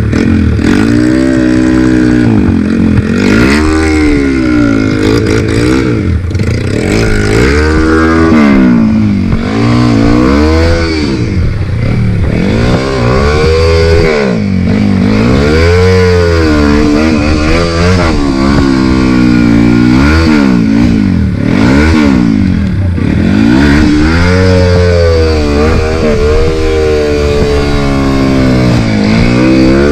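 Trail motorcycle engine revved over and over, its pitch rising and falling every second or two.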